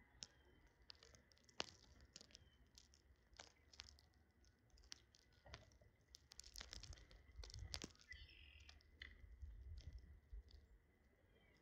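Faint, irregular sharp clicks and taps, typical of small birds pecking at and cracking seed.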